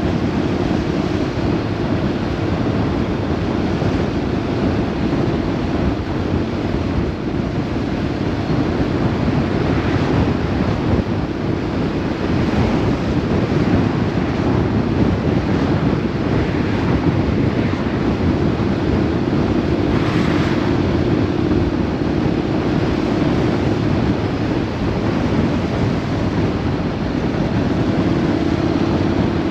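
Steady rush of wind buffeting the microphone on a moving vehicle, with a constant engine hum underneath.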